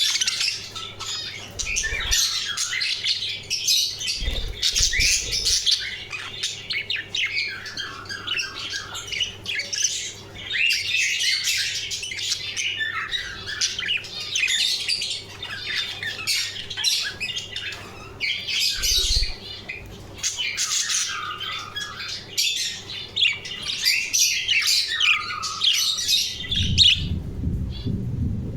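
Several budgerigars chattering and squawking continuously in quick, overlapping high calls, with a low rumble near the end.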